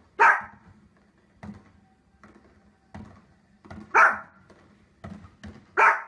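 A dog barking: three loud single barks, one just after the start and two more near the end, with softer short sounds between them.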